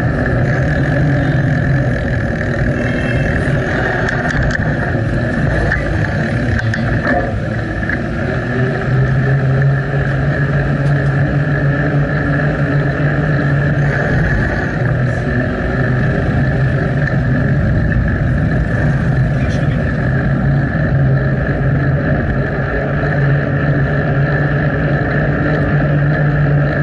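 Steady riding noise from a moving bicycle, heard on its action camera's microphone, with a low hum that grows louder at times.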